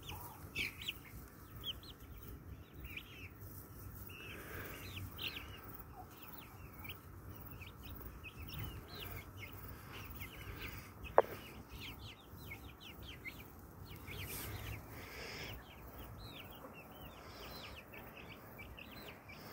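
Brahma chickens clucking and calling, with many short high-pitched calls throughout. A single sharp click about eleven seconds in.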